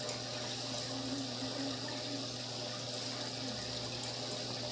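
Steady trickle and splash of aquarium water circulating, with a constant low hum under it, typical of a running tank filter.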